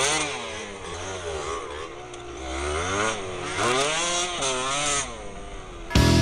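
Yamaha DT125R two-stroke single-cylinder dirt bike engine, revving up and falling back again and again with the throttle.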